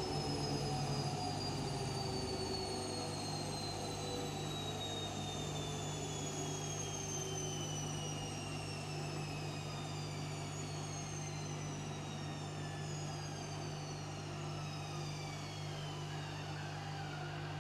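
Washing machine's drum slowing down after a spin: a motor whine falling steadily in pitch over a steady low hum.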